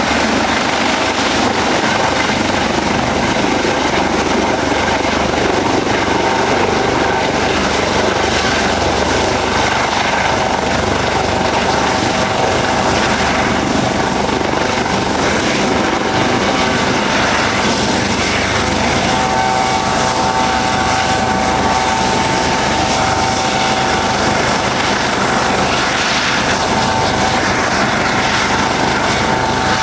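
Helicopter running close by, a loud, steady rotor and engine sound, with a steady whine that comes up stronger about two-thirds of the way through.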